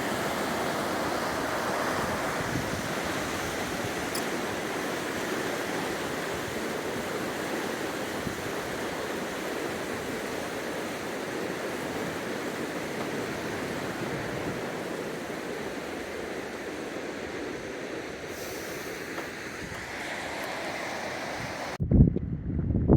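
Steady rush of a fast-flowing mountain river. Near the end it cuts off abruptly, followed by a few loud low thumps of wind buffeting the microphone.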